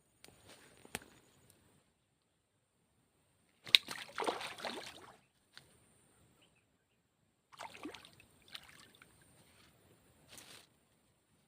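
Water sloshing and splashing in four short bursts, with a sharp click about four seconds in: a freshly caught snakeskin gourami being handled and put away in water.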